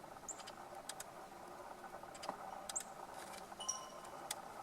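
Faint camera shutter clicks, single and in quick pairs, scattered through, from burst shooting. A few short high bird chirps and a thin whistled bird note about three and a half seconds in sound over a faint steady background.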